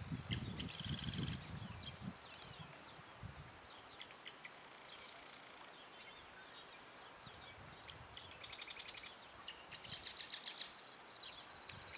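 Birds calling in short, rapid buzzy trills, four of them, each lasting about a second, with a low rumble in the first couple of seconds.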